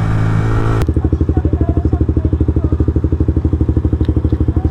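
Suzuki GSX-R 125's single-cylinder engine running under way with wind noise. About a second in, it cuts abruptly to the engine idling with an even, rapid pulsing beat.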